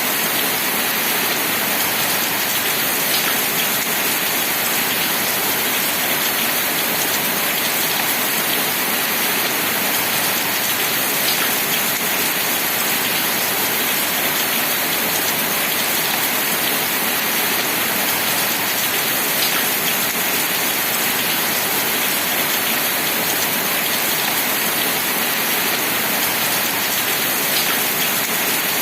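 Steady rain falling, an even hiss of drops with no let-up, with a few single drops standing out now and then.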